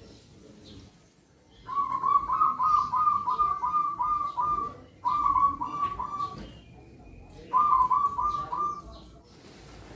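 Zebra dove (perkutut) cooing in three bouts of quick, evenly repeated staccato notes, about three notes a second, with short pauses between the bouts.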